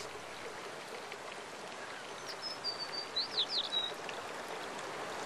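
Outdoor ambience with a steady background hiss, and a bird calling with a short run of high, quick whistled notes, some sweeping up and down, between about two and four seconds in.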